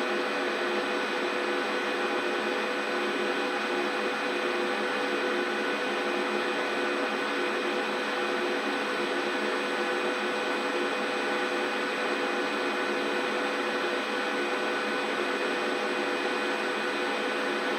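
Large 39 kg commercial front-load washing machine running, a steady motor whir with a hiss and several constant tones, no change in pace.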